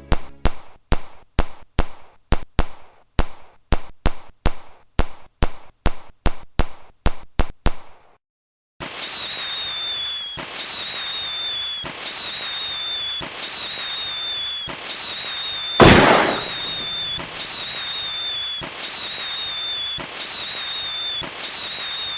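Fireworks: a rapid, regular run of sharp bangs, about three a second, then after a short gap a continuous crackling hiss with a falling whistle that repeats every second and a half or so. One loud bang comes about two-thirds of the way through.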